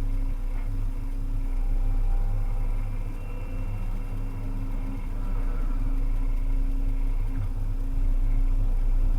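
Volvo EC300EL excavator's diesel engine running steadily, with faint short whines coming and going in the middle.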